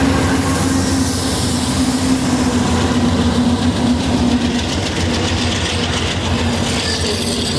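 A Norfolk Southern train rolling past: a steady rumble of steel wheels on rail with a held low tone, and a clickety-clack of wheels passing over rail joints.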